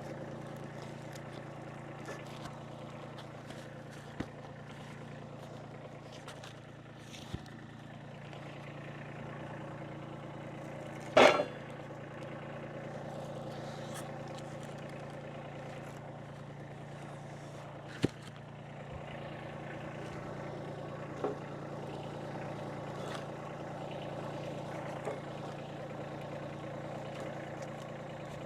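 Kubota tractor's diesel engine running steadily, with several sharp knocks as wood rounds are rolled and dropped, one much louder than the rest about eleven seconds in.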